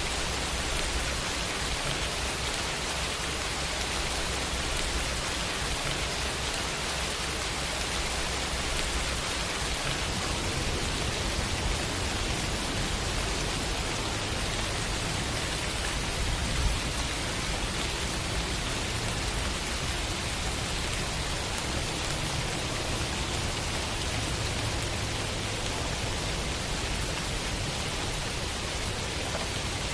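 Steady rain falling, a dense, even hiss, with a low rumble underneath that grows stronger about a third of the way in. One brief louder tap a little past halfway.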